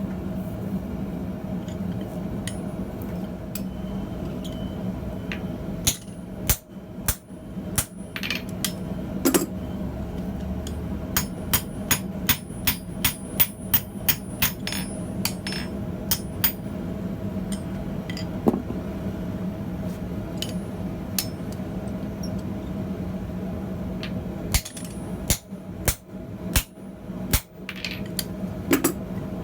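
Hand hammer striking hot steel on an anvil while forging blacksmith tongs: sharp ringing blows in runs, at times about two a second, with pauses between, over a steady low hum.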